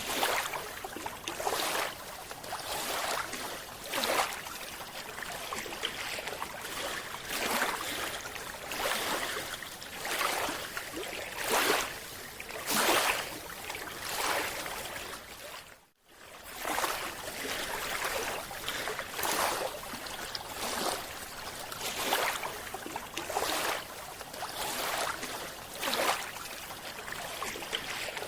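Underwater rushing water and bubble noise, swelling in surges about once a second, with a sudden brief cut about halfway through.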